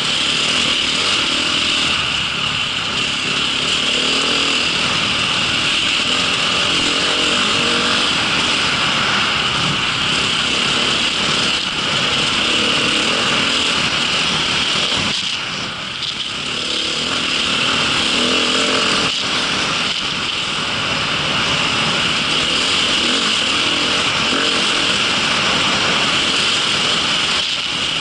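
Engine of an off-road vehicle running under changing throttle while being ridden, with a steady hiss over it; it eases off briefly about halfway through, then picks up again.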